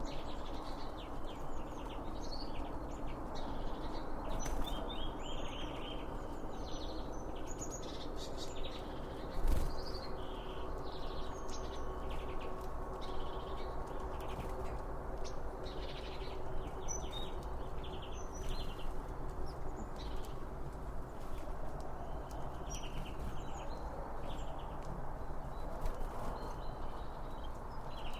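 Many small songbirds chirping and twittering over a steady low background rush, with one sharp thump about nine and a half seconds in.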